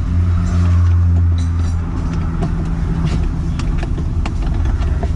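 A steady low mechanical hum, a little louder for the first two seconds, with scattered sharp clicks and taps over it.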